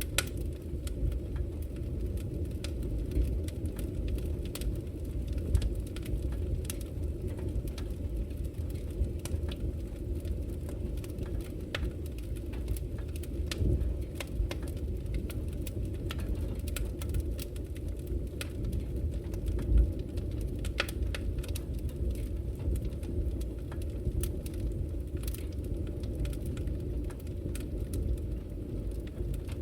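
Wood fire burning in a fireplace: a steady low rumble of the flames with scattered sharp crackles and pops, and one louder thump about two-thirds of the way through.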